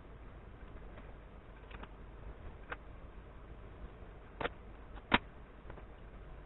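A few isolated sharp clicks and knocks, the loudest a single knock about five seconds in with a double knock just before it, over a low steady hum.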